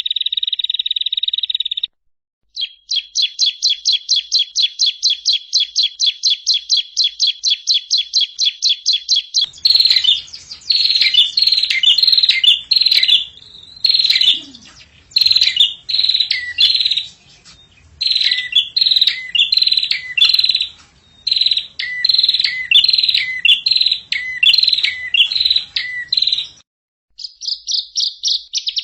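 Songbird call recordings spliced one after another, of the kind used as a masteran to train caged songbirds. First comes a steady high trill, then a rapid string of even high notes about five a second. Next is a long series of loud, down-slurred whistled notes over faint background noise, and a fast buzzing trill follows near the end.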